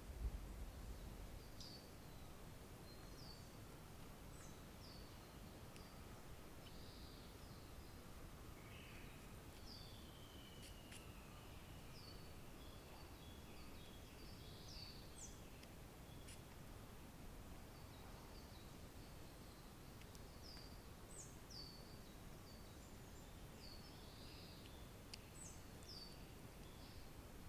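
Faint wild bird calls: many short, high notes, each sliding downward, repeated at irregular intervals by one or more small songbirds, over a low outdoor background hum. A brief low thump sits at the very start.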